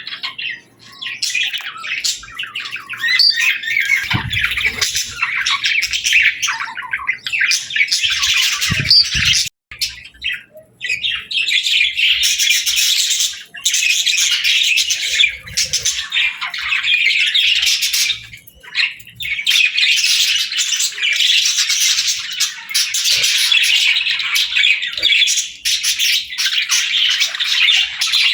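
Budgerigars chattering and warbling, a dense flock of fast chirps and squawky calls with a couple of short pauses.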